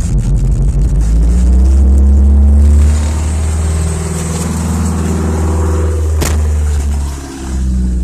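Van engine just started in deep cold (about −18 °C), running at a loud, high fast idle that drops back about three seconds in. It runs rough: the engine nearly stumbles out near the end before picking up again. A sharp click comes a little after six seconds.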